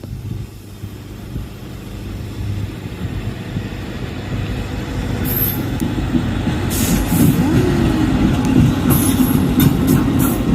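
A train approaching and passing, with its low rumble growing steadily louder. From about halfway in come brief high-pitched squeals and clicks from the wheels on the rails.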